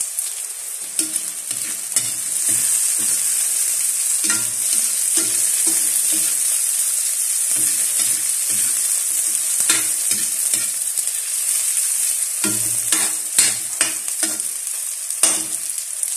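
Sliced onions and garlic sizzling in oil in a metal wok, with a steady high hiss. A spatula stirs them in repeated short scraping strokes and knocks sharply against the wok a few times.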